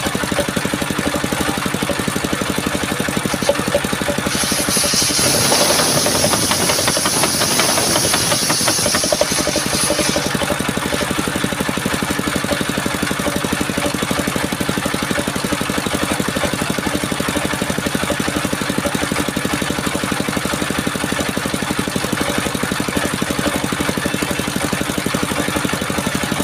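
Engine of a mobile circular sawmill running steadily. From about four seconds in, a high hissing whine is added for about six seconds as the blade cuts through a coconut trunk, then the engine runs on alone.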